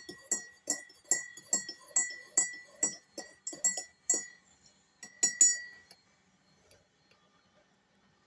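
A small bell jingling, struck about three times a second for about four seconds, then twice more before it stops ringing.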